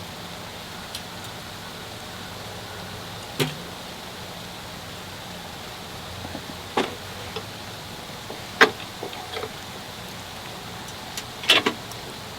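A steady low hum with a handful of sharp knocks and clicks at irregular intervals.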